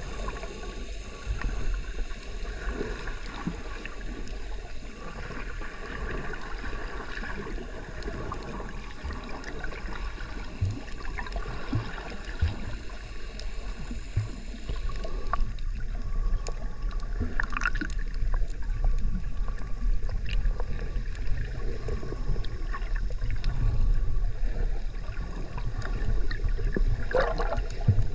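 Wind rumbling on the microphone while water splashes and gurgles along a small boat's hull under way; it gets louder about halfway through.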